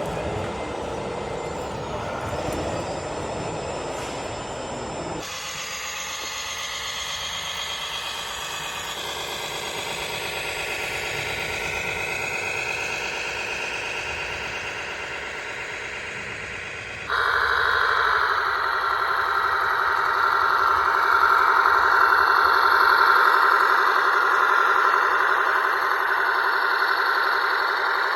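Radio-controlled model trucks and tractors running, heard as a steady mechanical whine. It changes abruptly about 5 seconds in and again about 17 seconds in, and is louder after the second change.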